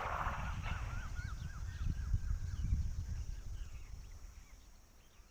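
Black drongo calling: a quick run of about ten short, up-and-down chirps in the first two and a half seconds, then fainter scattered chirps, over a low rumble on the microphone.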